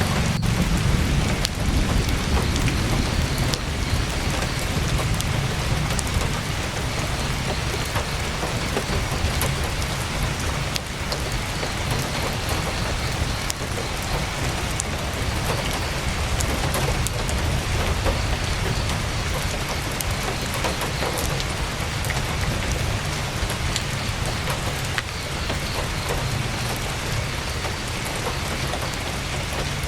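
Heavy rain falling steadily on tent canvas, a dense even patter with scattered sharp ticks, over a low rumble.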